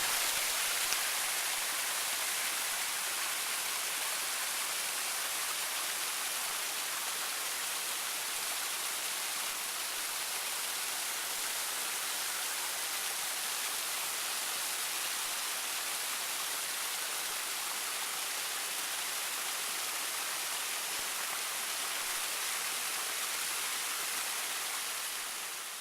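Small waterfall cascading down rock: a steady, even rush of falling water.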